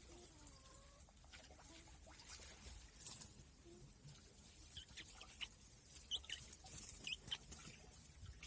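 Faint high-pitched chirps from small birds, scattered through the second half, with light pattering and tapping.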